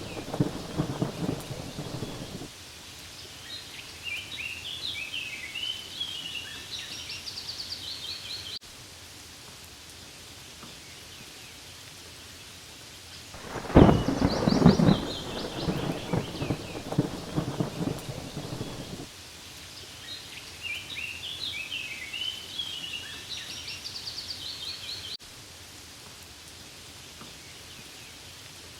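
Steady rain falling on leaves with rolling thunder: one rumble fading in the first two seconds, and a louder one about 14 seconds in that lasts several seconds. Between the rumbles come bursts of high chirping calls.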